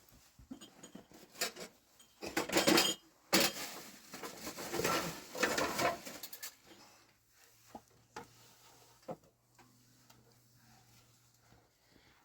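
Dishes and pots clattering and clinking as they are handled, in irregular bursts for the first half, then a few lone clinks over a faint steady low hum.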